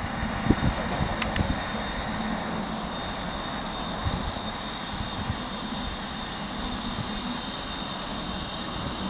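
InterCity 125 high-speed diesel train running away at speed just after passing through: a steady rush of wheel and rail noise with the drone of the rear power car, a few wheel knocks about half a second in, and high steady tones over it.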